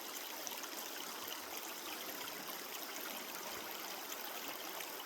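Creek water running and trickling over stones, a steady even rush.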